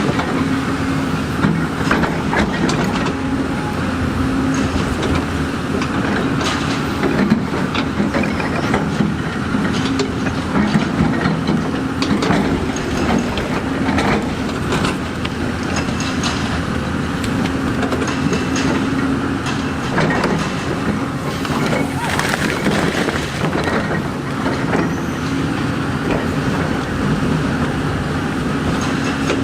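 Heavy diesel earthmoving machinery running steadily, with frequent knocks and clanks throughout.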